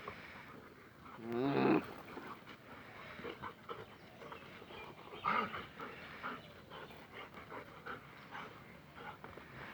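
Dogs fighting: a long wavering snarl a little over a second in, a short sharp dog cry about five seconds in, and scattered shorter noises between them.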